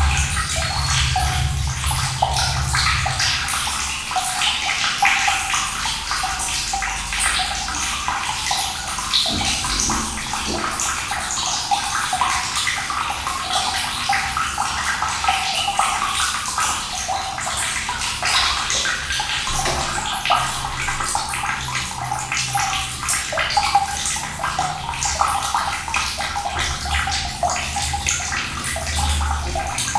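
Running water pouring and splashing in a steady flow, with a low rumble underneath near the start and again near the end.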